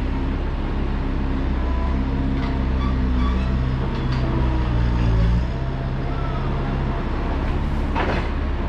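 A farm machine's engine running steadily under load, with a low, even drone. The note drops a little about five and a half seconds in.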